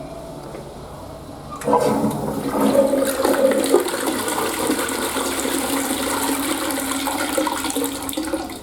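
Toilet in a public restroom flushing: a sudden rush of water starts about two seconds in, runs steadily for several seconds and stops abruptly near the end.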